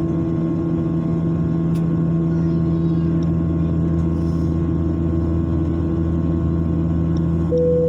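Aircraft cabin noise during climb: a steady drone with several constant low hums. Near the end a steady beep starts.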